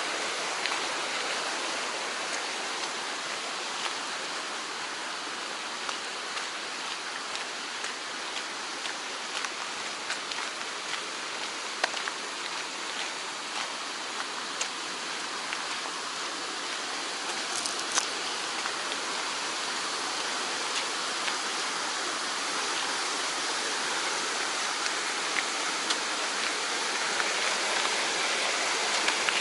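Mountain stream rushing over rocks, a steady full-sounding water noise that grows a little louder over the last third. Scattered small sharp ticks sound over it.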